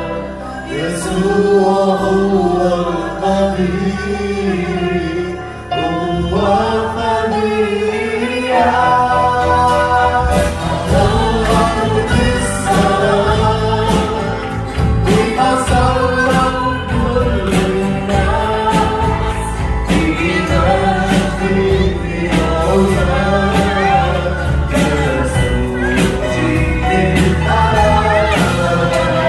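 A group of voices singing a Christian song together, with a steady beat joining about nine seconds in.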